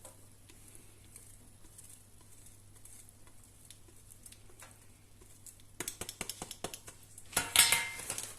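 Faint kitchen handling at first, then a quick run of clicks and a loud clatter of dishes and utensils near the end.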